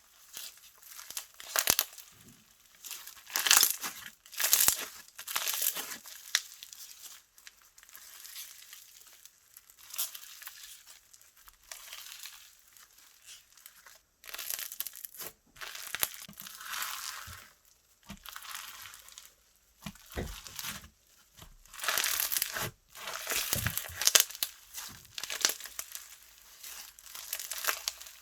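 Slime being squeezed, stretched and pressed by hand, giving irregular bursts of crackling and crinkling with short pauses between them.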